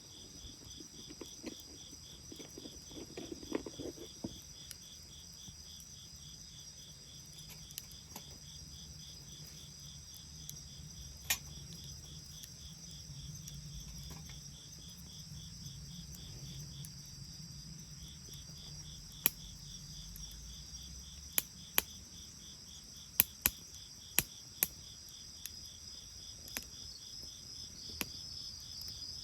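Crickets chirping steadily in a high, evenly pulsing chorus, with a wood bonfire giving a low hiss and now and then a sharp crackling pop, several in quick succession in the second half.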